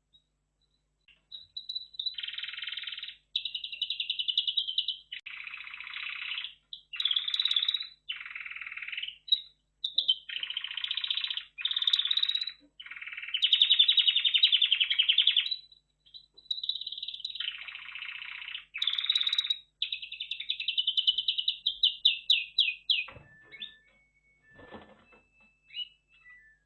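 Red factor canary singing: a long run of rapid trilled phrases, each a second or two long with short breaks, stopping about 23 seconds in. A few faint knocks follow near the end.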